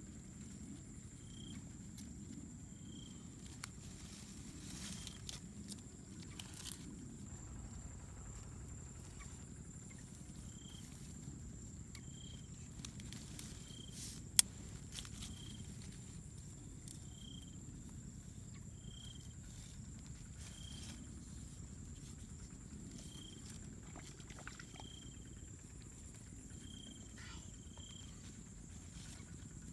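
Natural outdoor ambience: a steady high hum, short high chirps every second or two, a low rumble underneath, and one sharp click about fourteen seconds in.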